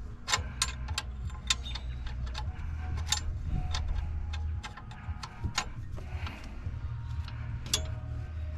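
Irregular sharp metallic clicks and clinks of hand tools, a few a second, over a steady low hum.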